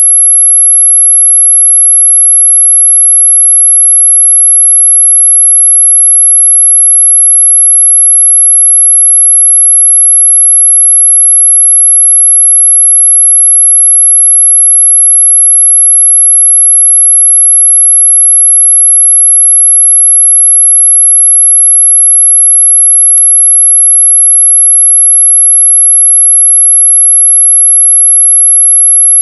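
Steady, loud, very high-pitched pure tone held without a break, played as a mosquito-repellent sound.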